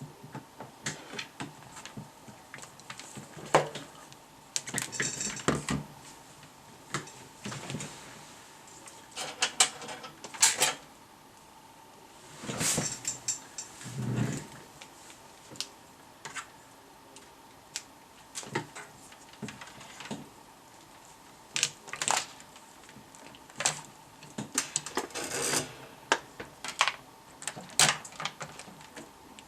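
Irregular clicks, scrapes and clatter of small metal parts and tools being handled on a workbench, with a faint steady tone underneath.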